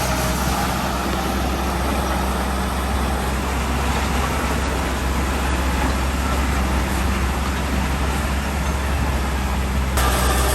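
Heavy earthmoving machine's diesel engine running steadily with a deep drone, changing abruptly near the end.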